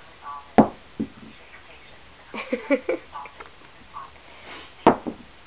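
Batteries tossed onto a hard floor, landing with two sharp clacks: one about half a second in, the other near the end, and a fainter knock just after the first.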